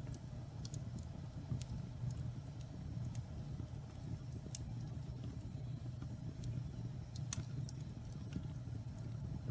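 Wood fire burning in a fireplace: a steady low rumble of flames with scattered sharp crackles and pops, the loudest about seven seconds in.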